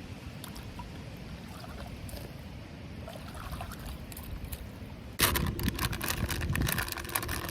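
Water trickling and splashing around a kayak, over a low rumble of wind on the microphone. About five seconds in, a louder run of rapid clicks and rattles begins, with a steady hum under it.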